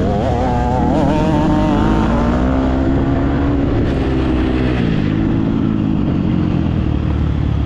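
Motocross dirt bike engine revving hard, its pitch rising and falling again and again with the throttle as it rides the track.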